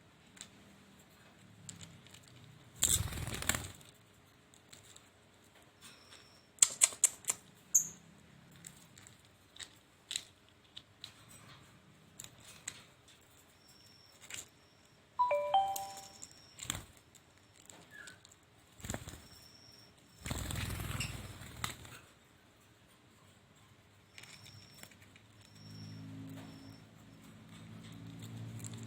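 Hanging parrot (srindit) giving short, thin, high-pitched calls every few seconds, with scattered sharp clicks and two brief bursts of rustling, like wing flaps or movement in a cage. A low hum comes in near the end.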